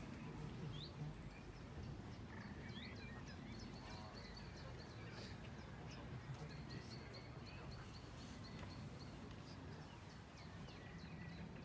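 Small birds chirping, with short scattered calls and a run of quick repeated notes in the middle, over a low steady background hum.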